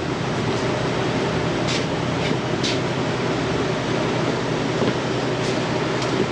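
Hot engine oil pouring in a steady stream from a motorcycle's open drain hole into a drain pan.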